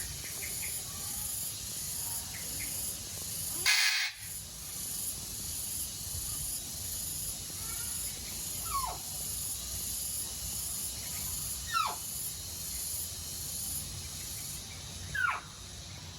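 Three quick downward-sliding whistled bird calls, a few seconds apart, over a steady high hiss, with a short loud burst of hissing noise about four seconds in.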